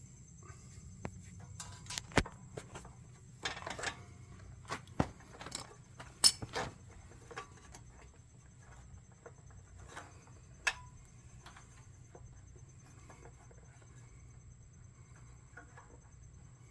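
Scattered small clicks, taps and clatter of hand tools and small metal parts being handled while fitting a fuel hose and clamp onto a small engine's carburetor, with a few sharper knocks about 2, 6 and 11 seconds in.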